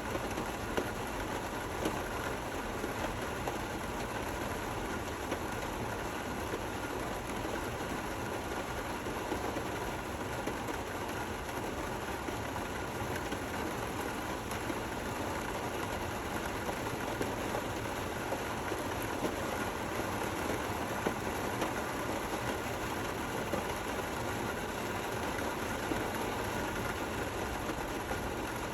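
Steady rain falling: an even, unbroken hiss with a few faint ticks from drops scattered through it.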